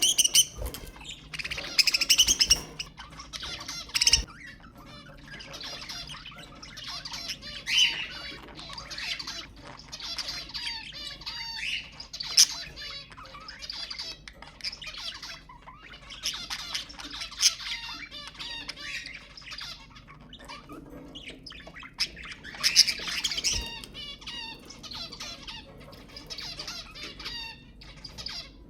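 Budgerigars chattering and warbling nonstop in fast chirps, broken every few seconds by louder sharp squawks.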